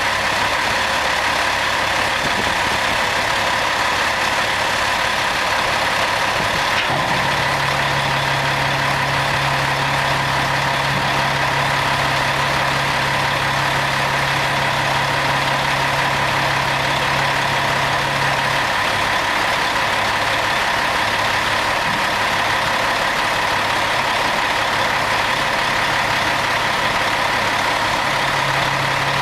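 Peterbilt 379 dump truck's diesel engine idling steadily with a constant whine. A low hum comes in after about seven seconds, drops out a little past the middle, and returns near the end.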